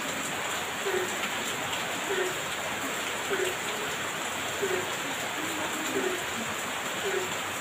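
Heavy rain falling steadily, with a short low note repeating about once a second.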